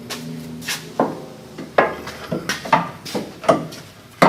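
Irregular knocks and clinks of metal parts and hand tools being handled, about half a dozen separate strikes over a few seconds.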